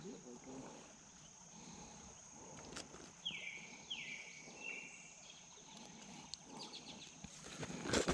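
Quiet outdoor background under a faint steady high-pitched tone. A little after three seconds a bird gives three short calls, each sliding down in pitch. Near the end come a few sharp clicks and rustles as pliers are handled and pushed into a tackle bag.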